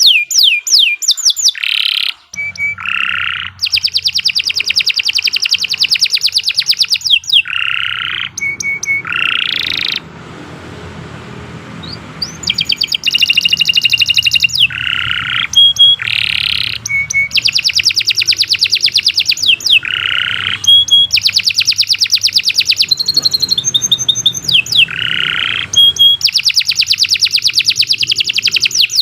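Domestic canary singing long, fast trills and rolls, changing from one run of rapidly repeated notes to the next every second or two. The song breaks off for about two seconds near ten seconds in, and a faint low hum runs underneath.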